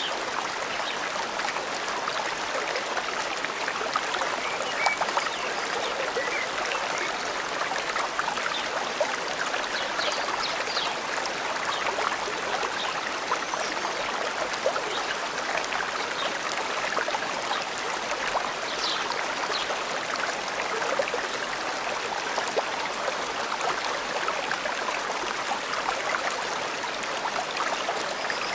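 Forest stream babbling and trickling steadily over stones, with a few faint, brief bird chirps above the water.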